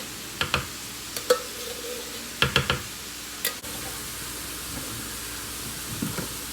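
Ground beef sizzling in a frying pan, with a few sharp clinks of a utensil against cookware, including a quick cluster about two and a half seconds in.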